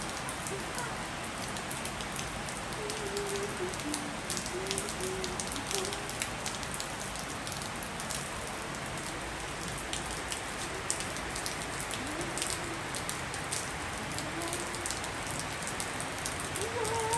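Steady rain falling on a wet tiled rooftop, a dense even hiss with many small sharp drop ticks scattered through it.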